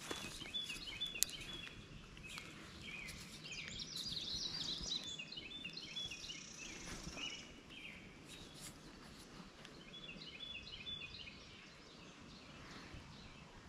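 Small birds singing in several runs of quick high notes, over a faint steady background hiss.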